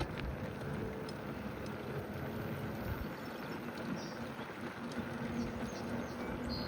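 Steady rolling rumble of a bicycle in motion, from tyre noise and wind on the microphone, with a few faint high bird chirps.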